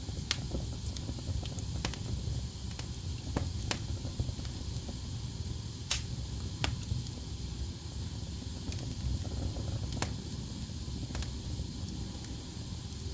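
Wood fire burning in a fireplace: irregular sharp crackles and pops over a steady low rumble, with the loudest pops about six and ten seconds in.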